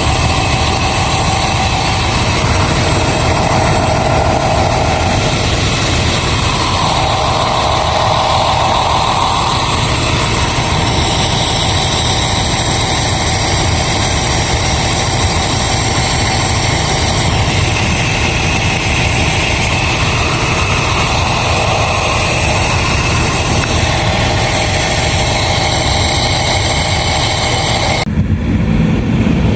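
Diesel locomotive engine running steadily at idle, a deep steady hum. Near the end the sound changes abruptly as the upper hiss drops away.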